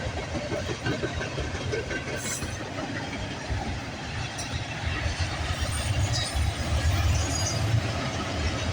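Freight train rolling past at close range, a steady low rumble of wheels on rail. Brief high wheel squeals come about two seconds in and again later, and the sound grows somewhat louder in the second half.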